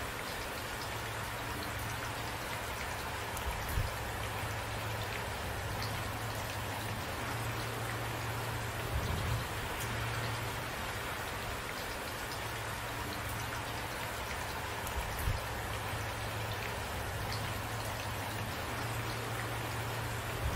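Steady rain falling and drops pattering on a surface. A few brief, soft low thumps come about 4, 9 and 15 seconds in.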